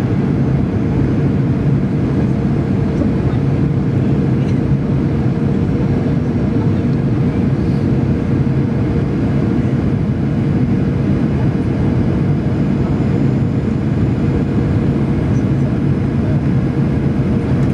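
Jet airliner cabin noise in flight on approach: a steady drone of engines and airflow with a constant hum running through it.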